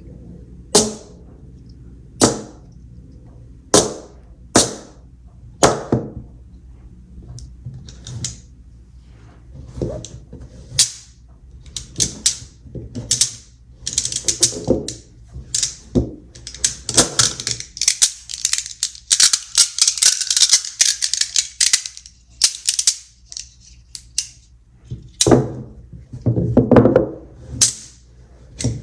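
Magnet balls snapping together with sharp clicks: a few single clicks spaced a second or so apart, then quicker runs of clicks and, in the middle, a few seconds of dense clattering as many balls knock together, then more single snaps near the end.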